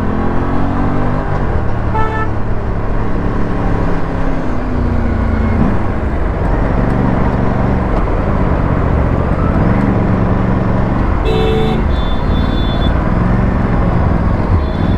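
Aprilia RS457's parallel-twin engine and exhaust, the revs rising and falling again and again while riding in traffic. Vehicle horns honk over it: a short toot about two seconds in and a longer honk about three-quarters of the way through.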